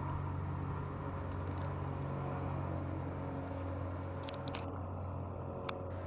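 Steady low mechanical hum, with a few faint high chirps in the middle and a couple of sharp clicks near the end.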